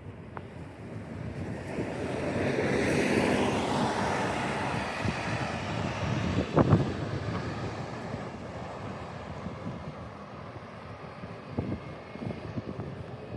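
A car passes along a snow-covered street: its tyre and engine noise swells over a couple of seconds and then fades away. Footsteps crunch in the snow throughout, and there is one sharp knock about six and a half seconds in.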